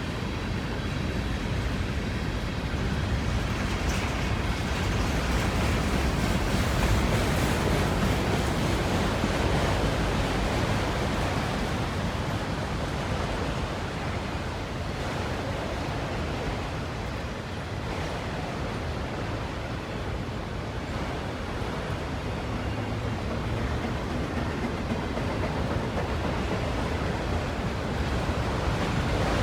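Freight cars of a long mixed manifest train rolling past on the main line: a steady rumble and rushing noise that swells a little around the middle.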